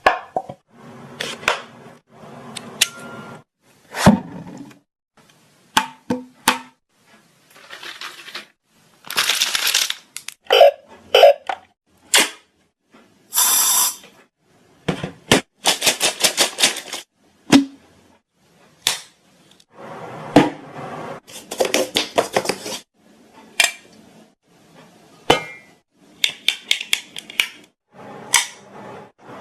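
A rapid string of short, varied novelty noises made with the mouth and small objects, cut back to back: sharp clicks and pops, short hisses, brief squeaks and clinks.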